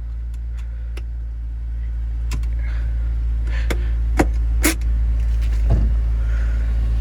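Honda S2000 four-cylinder engine idling with a steady low drone, heard from inside the cabin, with a few sharp clicks in the first five seconds.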